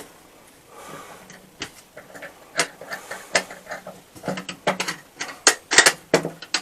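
Irregular clicks, taps and light knocks of hand work with small parts and tools, coming thicker about halfway through.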